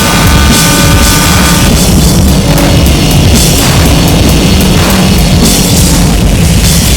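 Harsh noise music: a dense, distorted wall of electronic noise at full loudness, with a drum kit under it. Several steady high tones cut out about a second and a half in, and hissy surges in the treble come and go about once a second.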